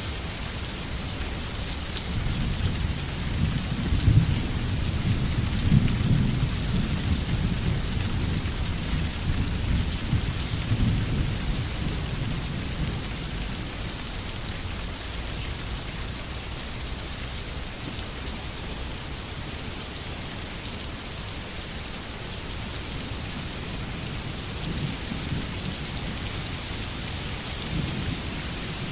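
Steady rain falling, with a low rolling rumble of thunder that swells over the first ten seconds or so and returns briefly near the end.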